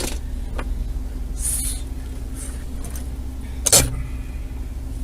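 Steady low rumble of a car running, with a steady hum over it; a brief hiss comes about a second and a half in, and one sharp knock a little past the middle.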